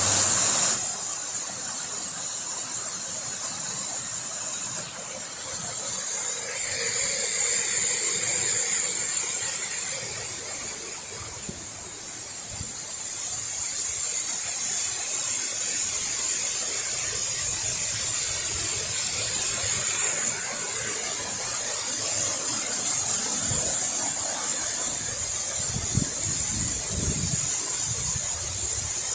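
Waterfall, a steady rushing noise of falling water, with a constant high-pitched hiss over it.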